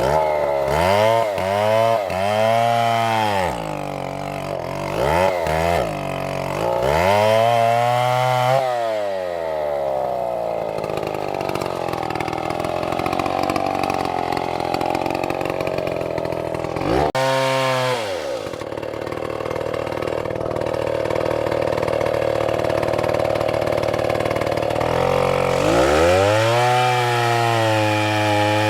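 Two-stroke chainsaw revved up and down in several quick bursts, then held at full throttle cutting into wood, its pitch pulled lower and held steady under the load. Partway through it revs up and drops once, then bites in again, and it revs high again near the end.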